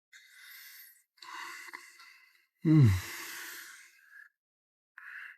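A person's breathy exhalations, with one louder sigh that falls in pitch about halfway through.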